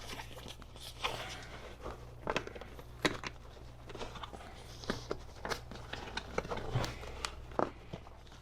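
Hands working a new seat cover over foam on a seat pan: irregular crinkling, rustling and sharp little clicks and taps of the material being handled.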